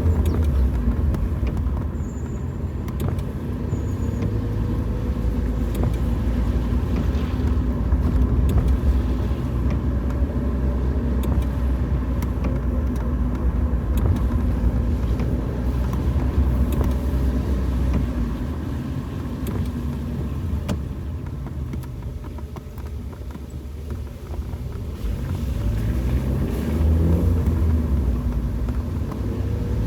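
A car driving on the road: steady low engine and tyre rumble. The engine note eases off about two-thirds of the way through, then climbs again near the end.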